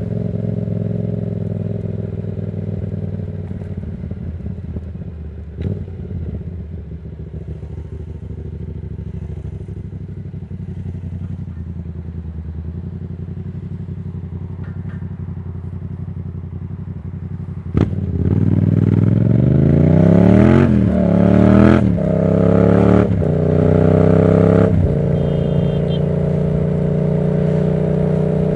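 Yamaha MT-07's 689 cc parallel-twin engine through a Black Widow aftermarket exhaust. It runs steadily at low revs for about eighteen seconds. Then comes a sharp click, and the bike accelerates hard through several gears, the revs climbing and dropping back at each shift, before it settles into a steadier, higher cruising note.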